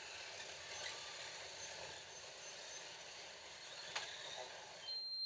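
Several Scalextric slot cars running around the track: a steady whirr of small electric motors and gear and guide noise, with one click about four seconds in. Near the end a short high beep sounds and the whirr stops suddenly, as when the track power is cut.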